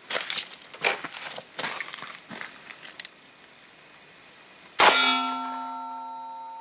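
Several seconds of small handling clicks and rustling, then a single sharp metallic clang about five seconds in that rings on with several clear tones, slowly fading.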